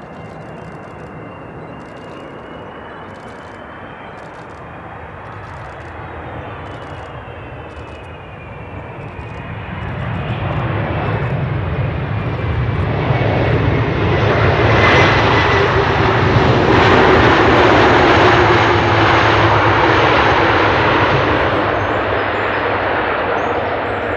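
Airbus A330 jet airliner on landing approach, its engine roar growing louder as it comes in and passes, with a whine that slides down in pitch as it goes by, then fading slightly near the end.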